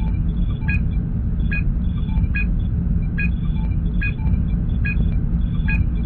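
Star Trek starship bridge ambience sound effect: a steady low engine rumble with a short electronic computer beep repeating evenly, a little more than once a second.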